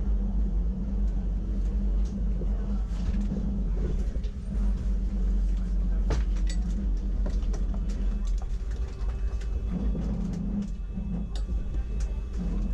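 Wengernalpbahn rack-railway train running, heard from on board: a steady low rumble and hum with scattered clicks and knocks from the wheels and track.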